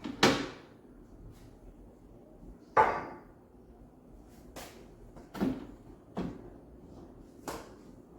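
A series of knocks and clatters from household objects being handled and set down, with two sharp, louder knocks, one just after the start and one about three seconds in, and several lighter knocks after.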